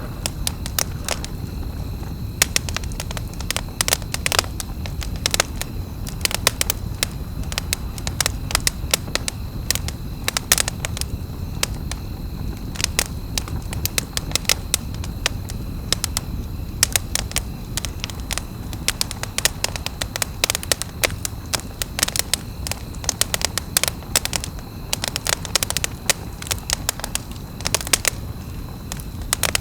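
Wood campfire crackling, with sharp snaps and pops at irregular intervals over a low, steady rumble.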